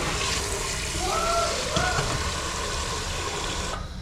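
Kitchen tap running in a steady rush of water, shut off abruptly near the end.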